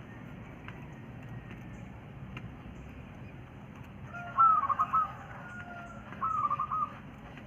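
Quail calling: two short bursts of rapid, repeated chattering notes, the first about four seconds in and a shorter one near six seconds, over a steady low background hiss.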